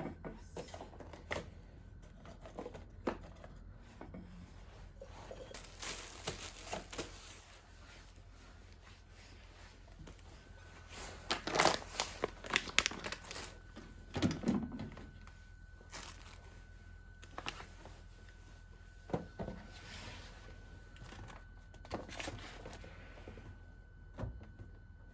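Kitchen handling sounds: scattered light knocks and clicks, with clusters of rustling around six and twelve seconds in. A faint steady tone starts about ten seconds in.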